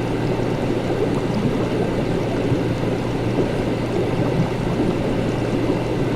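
Laboratory ambience: liquid bubbling and gurgling steadily over a constant low hum.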